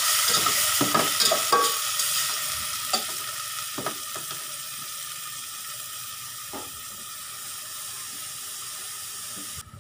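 Chicken pieces on the bone sizzling in hot oil in a metal pot, with a slotted metal spatula scraping and clicking against the pot as they are stirred, mostly in the first two seconds. The sizzle dies down steadily and cuts off suddenly just before the end.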